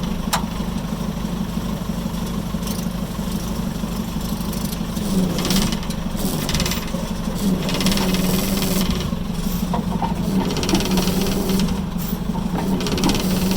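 Heavy equipment engine running steadily. From about five seconds in its pitch wavers as it labours under hydraulic load, with several brief bursts of rattling noise.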